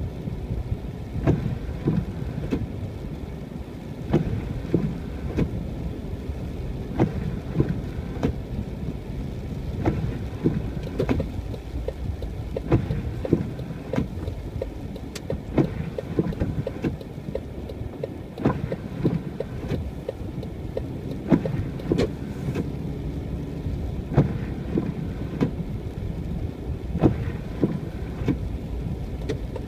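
Car driving through snow: a steady low road and engine rumble, with frequent irregular knocks and thumps on top.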